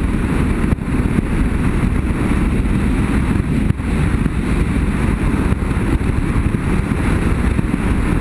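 BMW F800GS parallel-twin motorcycle riding along at a steady pace, engine and wind noise mixed together, with two brief dips in loudness, about a second in and near the middle.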